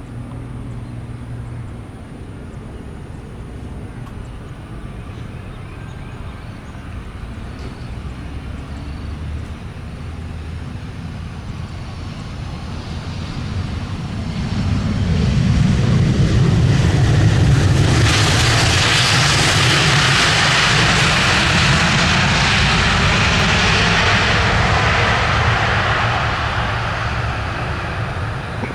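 Airbus A320 jet engines growing louder as the airliner comes in to land, then a loud rushing roar for about eight seconds that fades near the end.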